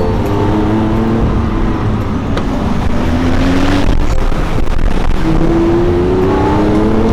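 Sports car engine accelerating hard. Its pitch climbs, drops back and climbs again, as with upshifts, and a rush of noise comes in around the middle.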